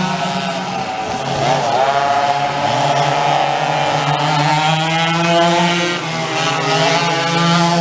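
Vintage dual-engine racing kart's engines running hard at high revs. The pitch dips about one and a half seconds in, then climbs again, and wavers up and down through the rest.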